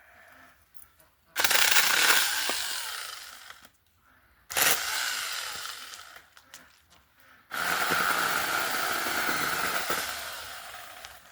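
Mini chainsaw running in three bursts as it cuts branches. Each burst starts suddenly and fades away over a couple of seconds, and the last is the longest.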